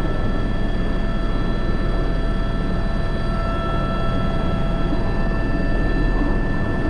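Airbus H125 single-turbine helicopter in slow flight carrying a heavy sling load, about 1,100 kg: a steady rotor and engine rumble with several constant whine tones from the turbine and gearbox, heard from the cockpit.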